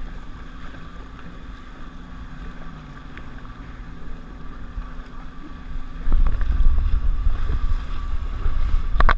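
Jet ski engine running at a steady pitch. From about six seconds in, wind buffets the microphone in a loud low rumble.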